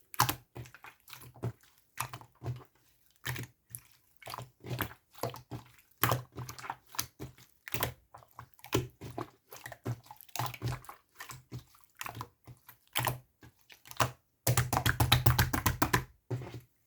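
A close-up series of irregular clicks, pops and small squishy crackles, as of something being handled or pressed right at the microphone, with a dense rapid run of clicks a little before the end.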